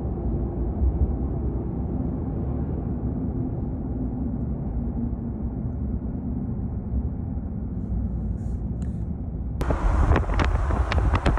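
Car driving, a steady low rumble of road noise. Near the end it turns suddenly louder and hissier, with quick crackles.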